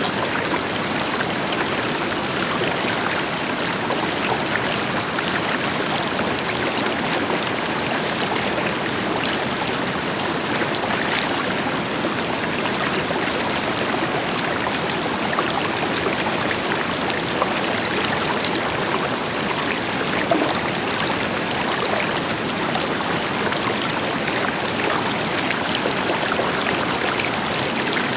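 River water flowing over rocks, a steady rushing with many small splashes and gurgles, backed by the deeper hiss of a distant waterfall.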